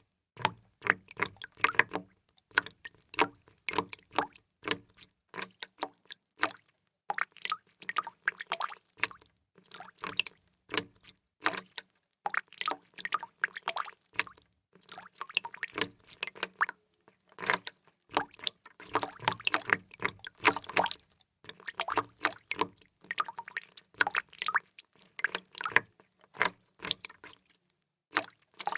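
Water drops falling into water, dripping and plopping in quick, irregular succession, several small drops a second, broken by a few brief pauses.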